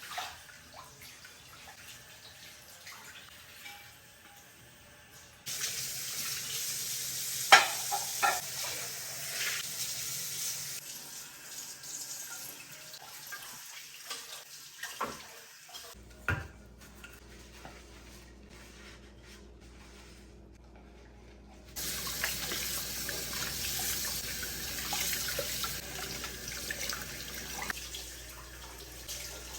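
Tap water running into a sink in two spells: the first starts about five seconds in and the second near two-thirds of the way through. Sharp knocks and clinks sound during the first spell.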